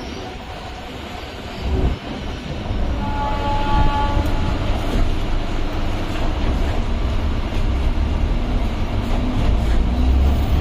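Electric suburban train running with a steady low rumble, and a horn sounding for about a second and a half some three seconds in.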